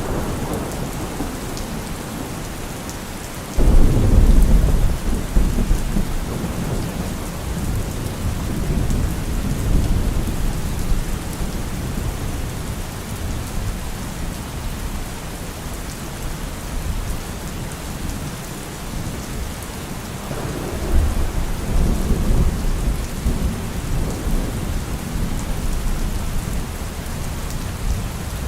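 Steady rain with two rolls of thunder. The first starts suddenly about three and a half seconds in and rumbles low for several seconds; a second, weaker rumble rolls in about twenty seconds in.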